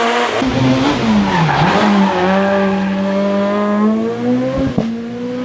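A rally car's engine at racing revs: the pitch drops sharply about a second in as it slows for a corner, then it accelerates and holds a high steady note, with a sharp crack shortly before the end as the revs dip again.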